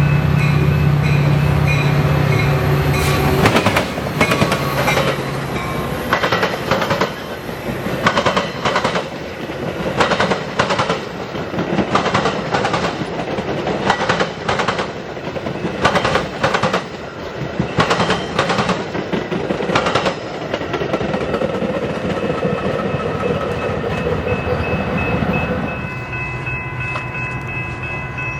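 A train passing close by. A steady pitched sound from the locomotive for the first three or four seconds, then a rapid run of wheel clacks over rail joints as the cars roll past. Near the end the clacks give way to steady high ringing tones.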